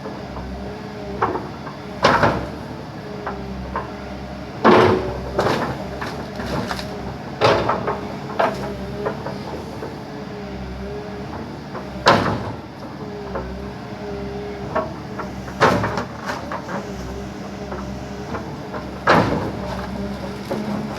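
Backhoe engine running steadily with a wavering whine, while about six loud cracks and crunches of wood break out as the machine smashes a tree apart.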